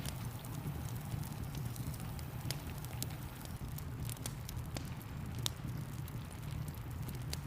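Wood fire crackling, with sharp pops every second or so, over a steady hiss of rain and a low rumble.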